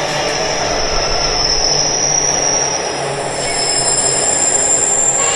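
A train rolling past on the line, its wheels squealing with thin, steady high tones over the rumble of the wagons; the squeal shifts up in pitch about halfway through.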